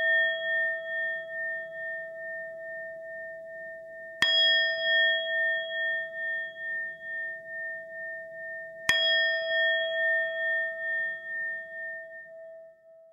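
A meditation singing bowl struck twice, about 4 s and 9 s in, each strike ringing on with a slow wobbling pulse, the previous strike's ring carrying over at the start. The last ring fades out near the end.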